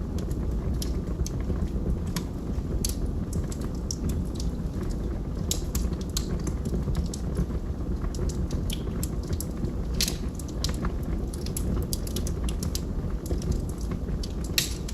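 Log fire burning: a steady low rumble of flames with irregular sharp crackles and pops from the burning wood, a few louder snaps about ten seconds in and near the end.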